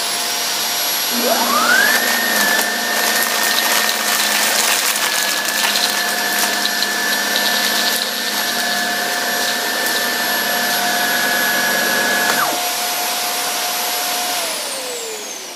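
Hoover WindTunnel bagless upright vacuum running at full speed, sucking up dry dog food kibble, with scattered clicks and rattles as the pieces are drawn in. A second, higher whine rises about a second in and cuts off about twelve seconds in. Near the end the vacuum is switched off and its motor whine falls as it spins down.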